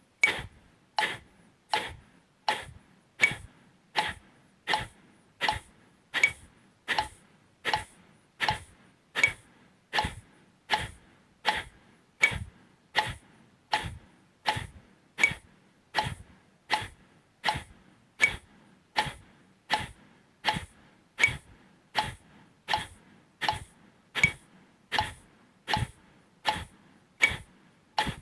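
Kapalabhati breathing: short, forceful exhalations through the nose, one sharp puff at a time at an even pace of about 80 a minute.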